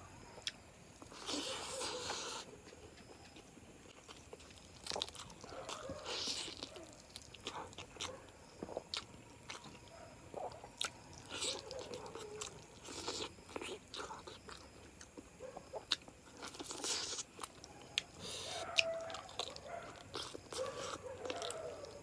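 A person chewing and biting into chicken curry with rice eaten by hand: irregular wet clicks and short bursts of chewing throughout.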